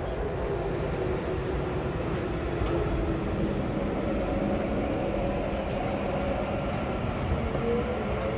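Saitama Railway 2000 series electric train running, heard from inside the car: a steady rumble of wheels on rail with a faint motor whine. Near the end the whine starts to rise in pitch as the train picks up speed.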